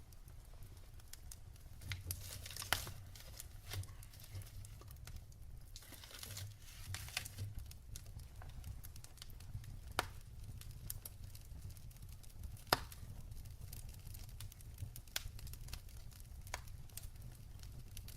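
Wood fire in a fireplace crackling: irregular sharp pops and snaps over a low, steady rumble of the flames, with short hissing stretches. The loudest pops come a few seconds in and about two-thirds of the way through.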